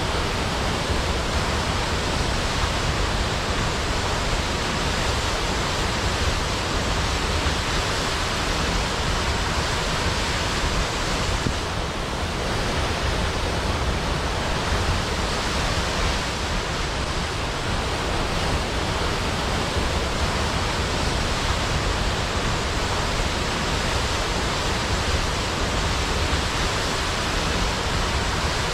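A large waterfall cascading into a pool: a steady, even rush of falling water.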